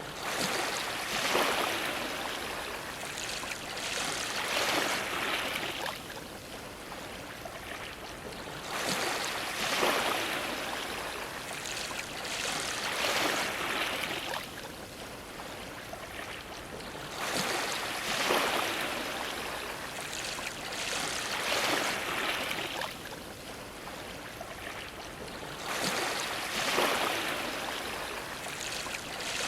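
Ocean waves washing against a dock: four surges of rushing water about eight seconds apart, each swelling and then falling away.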